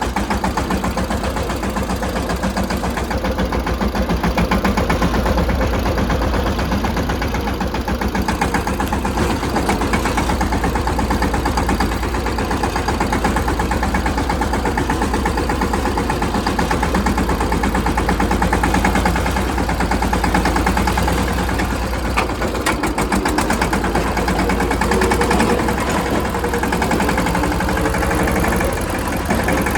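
Mahindra Yuvraj 215 tractor's single-cylinder diesel engine running steadily, its firing pulses coming in a rapid, even rhythm.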